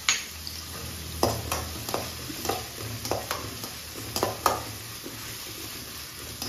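Sliced onions and crushed garlic frying steadily in oil in an aluminium kadai, stirred with a perforated metal ladle. There is a sharp knock at the start, then about eight short clinks and scrapes of the ladle against the pan.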